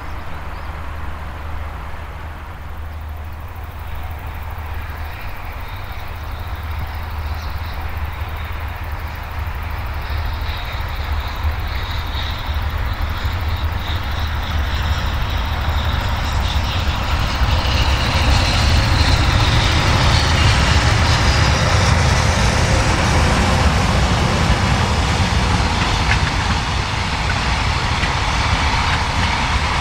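A train approaching on the line, its rumble growing steadily louder and fuller, loudest in the second half.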